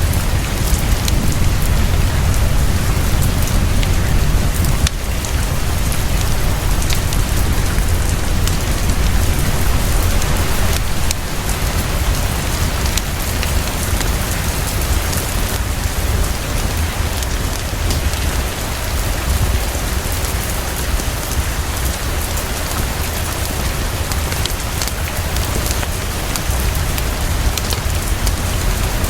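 Heavy, fast rainfall pouring steadily, over a constant deep low rumble, with scattered small sharp ticks through it.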